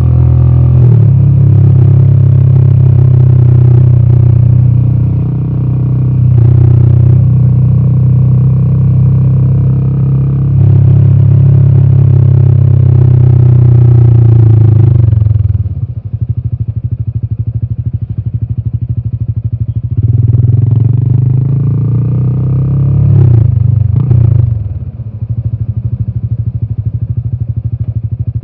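Royal Enfield Himalayan 450's single-cylinder engine heard close to the exhaust: running steadily under load with a few brief breaks in the note, then dropping to an even, pulsing idle about halfway through. It revs up briefly about three quarters of the way in, then settles back to idle.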